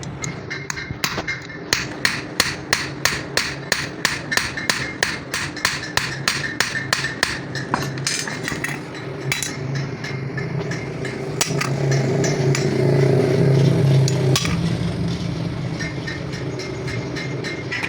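Hammer blows on metal, about three a second and evenly spaced, for the first half. The blows then thin out under a steady low mechanical hum, which grows louder for a few seconds past the middle and drops back suddenly.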